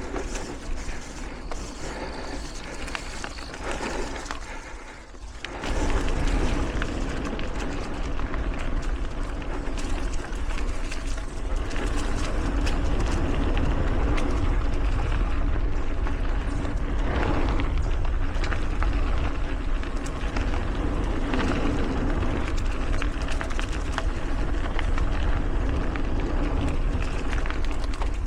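Mountain bike being ridden on hard-packed dirt singletrack, heard from a helmet-mounted camera: tyres rolling and the bike rattling over the trail. About six seconds in the noise jumps sharply and turns into a steady heavy rumble of wind on the microphone.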